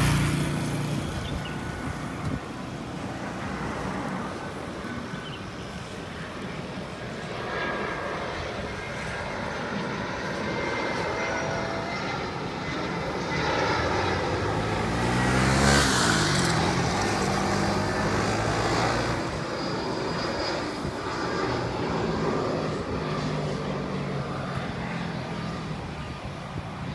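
Airbus A320-200 airliner on final approach, its jet engine noise growing to a peak about sixteen seconds in as it passes overhead, with a sweeping shift in tone at the peak, then fading.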